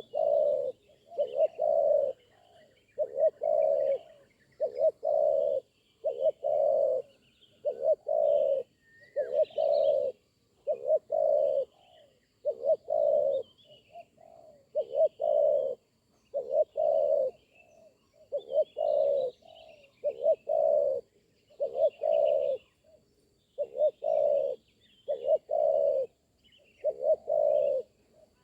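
Spotted dove cooing over and over, low coos coming about one a second. Small birds chirp faintly in the background.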